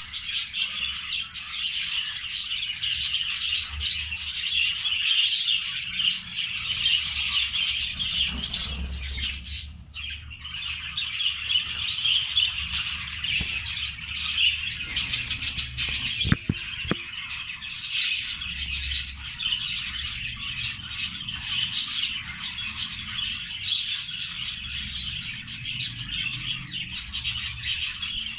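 Many budgerigars chattering and squawking together in a dense, continuous flock chatter, with a brief lull about a third of the way in.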